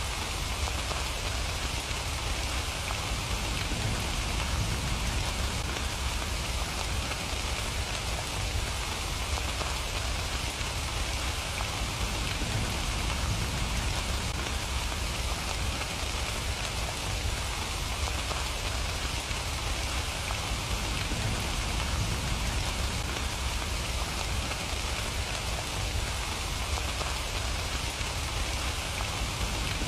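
Steady rain falling, an even, unbroken hiss of dense raindrop patter.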